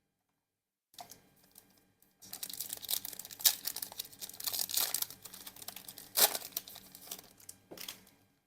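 Trading cards and their foil pack wrapper being handled, crinkling and rustling, with a few sharper crackles.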